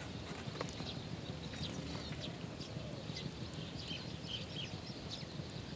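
Small birds chirping: many short, high peeps, scattered and irregular, over a steady low rumble.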